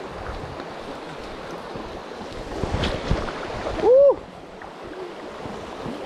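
Rushing creek water and sloshing as a person wades a high, rain-swollen creek, with louder splashing about two and a half to three seconds in. About four seconds in comes a short vocal exclamation whose pitch rises and falls, the loudest moment.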